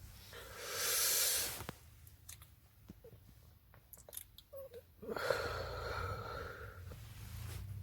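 A person breathing hard close to the microphone: one strong breath out about a second in, a few faint clicks, then a longer noisy breath from about five seconds in.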